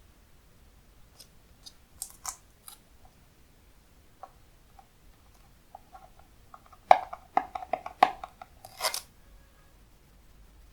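Hands handling the slime's packaging and containers: a few sharp clicks and crinkles about two seconds in, then a quick run of louder clicks and crinkling about seven to nine seconds in.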